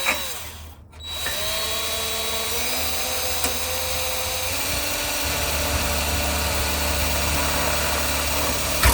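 Power drill running steadily for about eight seconds, starting about a second in; its pitch drops about halfway through.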